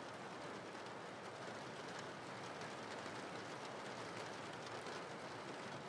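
Steady rain falling, a faint, even hiss with no separate drops or knocks standing out.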